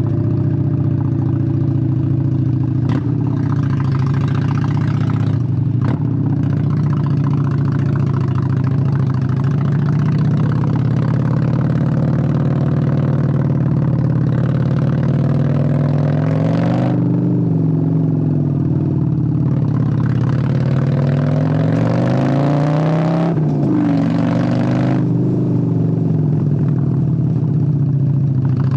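V-twin engine of a 1997 Honda Steed 600 motorcycle running steadily at low revs, then revving up and easing back twice, about halfway through and again near two-thirds of the way in. Two sharp clicks come early on the low running.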